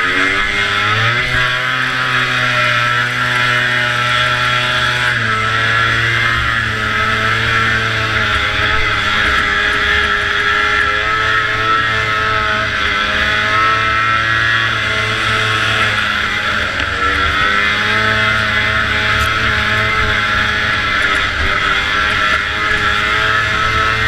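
Vintage two-stroke snowmobile engine running hard at high revs, pitch rising at the start, easing off about five seconds in and dipping again briefly around sixteen seconds before climbing back up.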